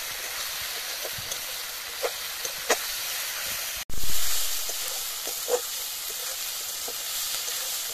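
Spice paste sizzling and frying in a steel kadai, with a steady hiss and scattered clicks and scrapes of a metal spatula stirring it against the pan. About halfway through, the sound cuts out for an instant and comes back with a thump.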